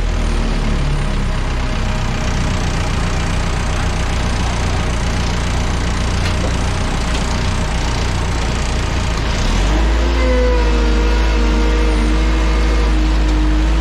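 Engine of an airport ground-support vehicle running over steady apron noise; about ten seconds in it speeds up with a rising whine, then holds at the higher speed.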